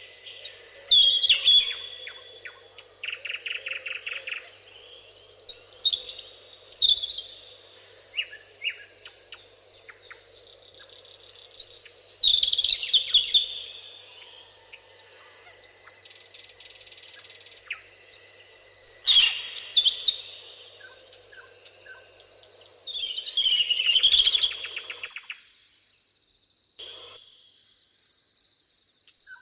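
Several songbirds singing in short bursts of trills and quick chirps, over a steady high-pitched insect drone. The background drops out abruptly for a moment near the end.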